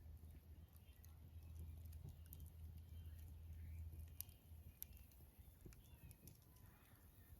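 Wood fire crackling faintly: scattered small pops and ticks, over a low steady rumble that fades out a little past halfway.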